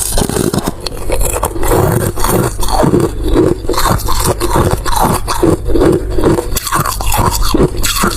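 Close-miked eating: rhythmic chewing with wet mouth clicks, about two chews a second, over a steady low hum.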